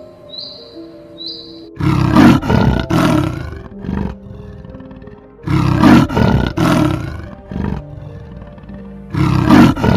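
A big cat roaring three times, each long roar followed by a short grunt, over soft background music.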